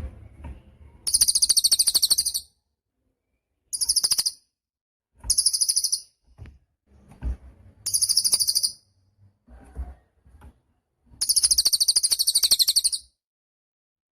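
Cililin songbird singing five bursts of very fast, high-pitched trilling, each lasting one to two seconds, with short pauses between them.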